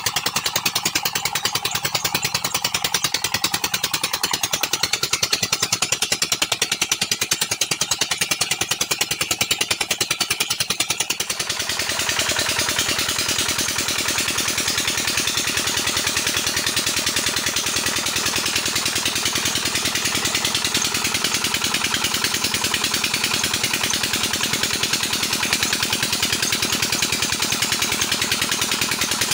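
Old 20 HP Petter diesel engine running with a steady, rapid knocking beat. Partway through the sound turns brighter and hissier.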